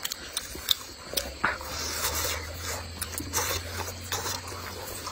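Close-up eating sounds of soft steamed shaomai dumplings being chewed: wet mouth clicks and lip smacks, with a couple of short breathy hisses.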